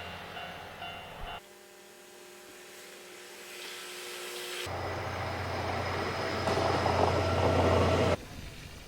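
Electric train sounds in abruptly cut short clips. A quieter stretch of steady humming tones grows gradually louder, then a louder, noisier train sound with a deep low hum cuts off suddenly near the end.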